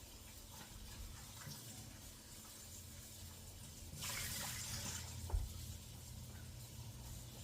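Kitchen tap running briefly, about a second of water hiss around four seconds in, with a low thump just after it and faint small knocks of handling otherwise.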